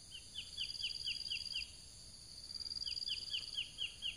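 A bird calling two runs of about seven quick down-slurred notes, one at the start and one past the middle, over a high-pitched insect trill that comes and goes.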